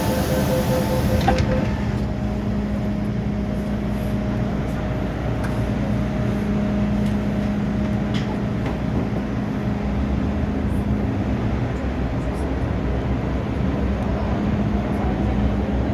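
MTR M-Train heard on board: a steady rumble with a constant low hum.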